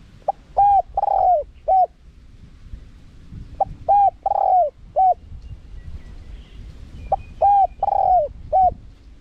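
Spotted dove cooing in the wild-bird style: three identical phrases about three and a half seconds apart, each a short lead-in note, a coo, a longer drawn-out coo and a closing coo.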